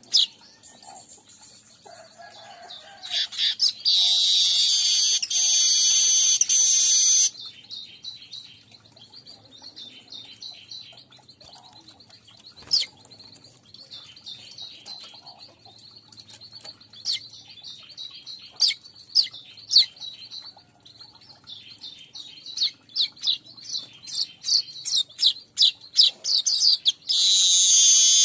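Streaked weaver (manyar kembang) song: runs of quick high chirps and ticks, broken by a long, loud buzzing wheeze about three seconds in that lasts some four seconds, and another one near the end.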